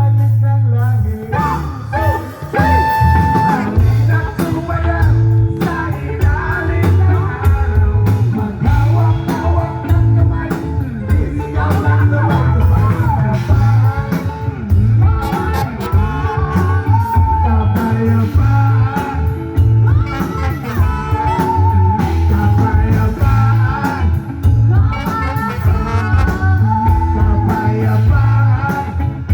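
A rock band playing, with guitar over a heavy, steady bass line.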